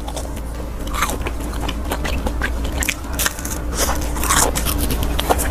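A person chewing a deep-fried skewer snack with a thin crisp shell and a sticky milky custard filling, with many small irregular crunches and mouth sounds.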